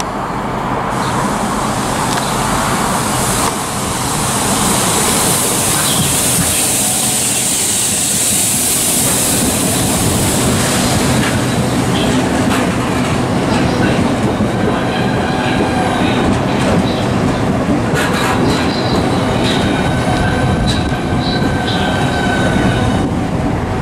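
Southeastern Class 395 Javelin electric multiple unit running through the platform without stopping: rushing air and wheel-on-rail noise close by, with thin high whining tones joining in the second half.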